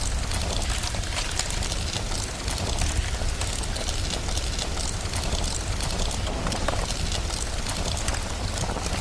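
Steady rain mixed with the crackling and popping of a wood fire, many small sharp pops over a continuous hiss, with a constant low rumble underneath.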